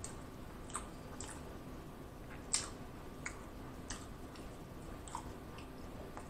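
A person chewing a mouthful of cheeseburger with the mouth closed, with soft wet mouth clicks and smacks every second or so, the loudest about two and a half seconds in.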